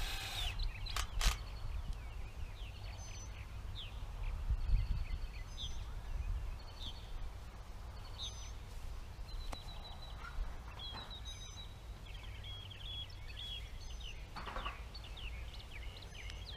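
Purple martins calling again and again, short chirps and sweeping calls, agitated at being disturbed at their nesting pole. Wind rumbles on the microphone underneath, and a couple of sharp clicks come about a second in.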